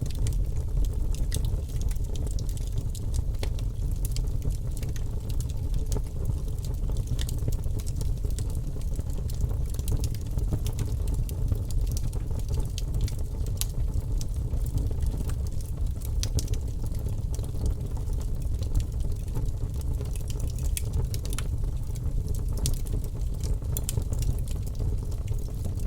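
Campfire crackling: frequent, irregular sharp snaps and pops over a steady low rumble.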